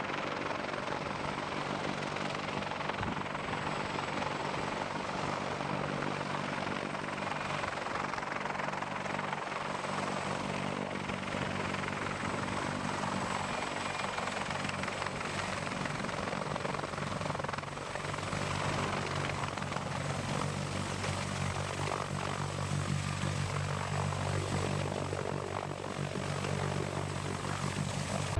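CH-53K King Stallion heavy-lift helicopter running steadily, its rotor and turbine engines giving an even, low, rhythmic drone under a broad rushing noise.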